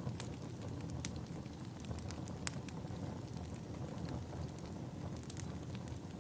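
Log fire burning in a fireplace: a low, steady rumble with scattered sharp crackles and pops.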